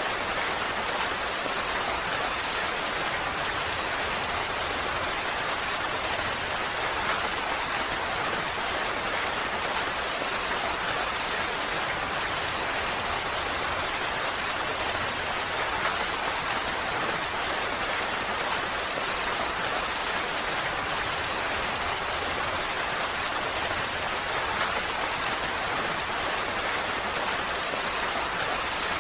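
Steady rain falling, an even, unbroken hiss with faint scattered drip ticks.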